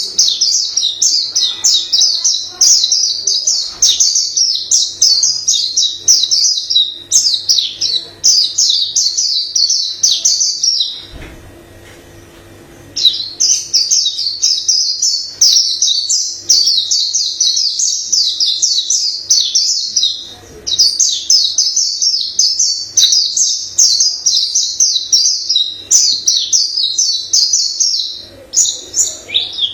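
White-eye singing a long, varied song of rapid, high twittering notes, which breaks off for about two seconds roughly eleven seconds in and then resumes.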